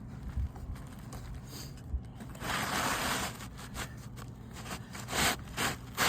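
Asphalt roof shingles scraping and rustling against each other as a replacement shingle is slid into place under the old ones, with one longer scrape about two and a half seconds in and a shorter one near the end, plus a few light knocks.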